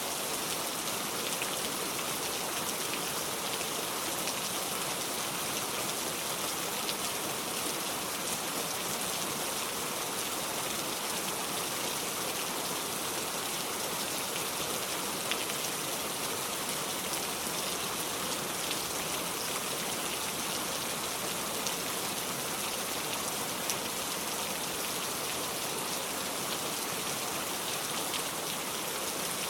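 Steady rain: an even hiss with scattered small ticks, unchanging throughout.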